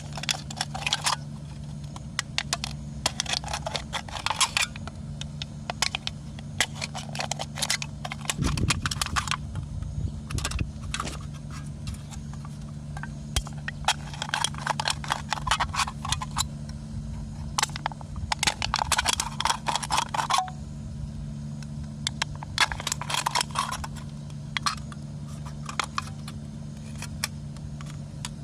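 Repeated light clinks and scrapes of small hard objects being handled, coming in clusters, over a steady low hum.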